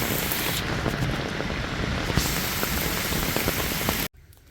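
Heavy rain falling, dense noise with many close, sharp drop hits. It cuts off abruptly near the end.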